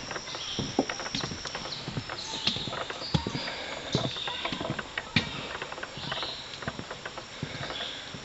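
Footsteps on a woodland trail, irregular steps with rustling, over a steady high chorus of insects.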